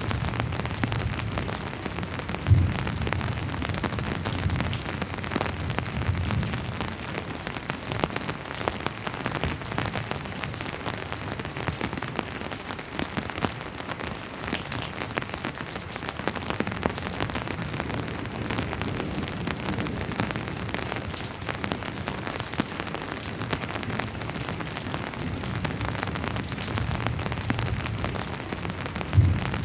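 Steady rain falling on a surface, a dense even patter, with low rumbling of distant thunder near the start and again near the end. A sharp low thump comes about two and a half seconds in and again near the end.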